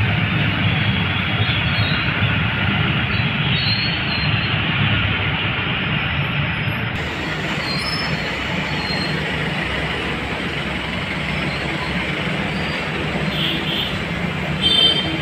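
A train running through the level crossing, a steady rumble with a hiss of wheels on rail, mixed with the engines of two-wheelers waiting at the gate. A short high beep stands out near the end.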